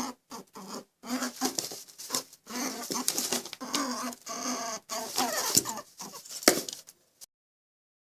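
Chickens clucking in a run of short calls that stop about seven seconds in.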